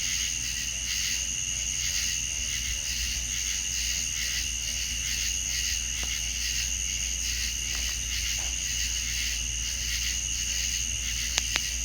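Steady chorus of insects, such as crickets, giving a continuous high pulsing trill, with a couple of faint clicks near the end.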